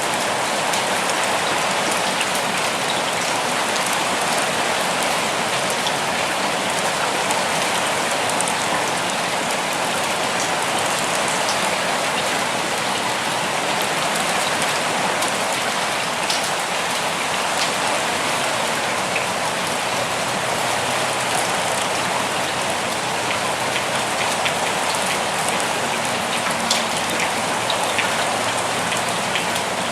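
Steady rain falling, a continuous even hiss with scattered sharper drops pattering on surfaces.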